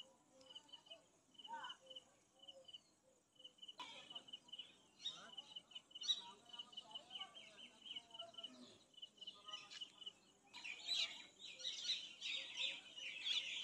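Birds calling: a steady run of short, high, evenly spaced pips, about five a second, with scattered chirps, and a burst of dense, busy chirping in the last three seconds.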